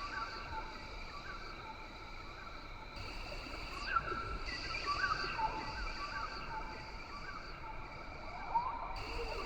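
Rainforest ambience: a steady, high-pitched chorus of insects with short rising chirps of calling animals every second or so.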